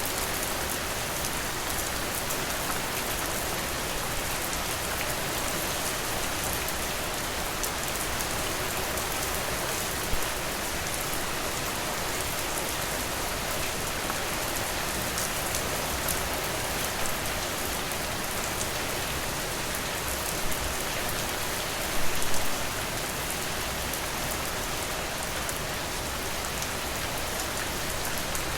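Steady rainfall: an even hiss of rain with individual drops tapping, and a few louder close drop hits, the biggest little cluster about 22 seconds in.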